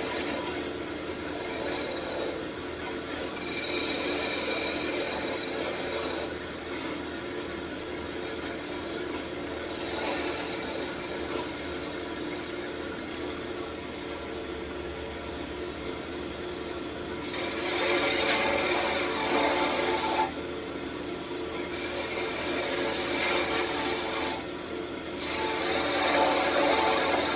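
Wood lathe running with a turning tool cutting a spinning walnut blank. The scraping of the cut comes and goes in several passes over a steady motor hum and is loudest in the later passes.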